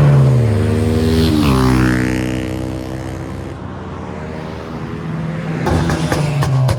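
Loud car exhausts as cars drive past and pull out. The engine note drops twice in the first couple of seconds, then holds steady, and near the end there are sharp crackles and a short rising rev.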